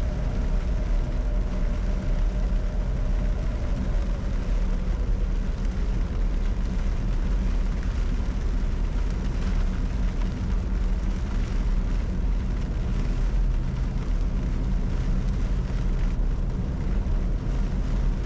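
Steady low hum inside the cockpit of a Bombardier Challenger 605 business jet on the ground, with a faint higher tone that fades out about four seconds in.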